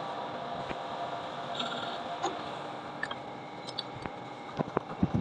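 Steady workshop background hum, with a few light clicks and taps in quick succession near the end as tools or small parts are handled.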